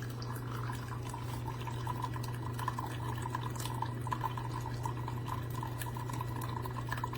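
Single-serve coffee maker running with a steady low hum and a watery gurgle, with small clicks throughout.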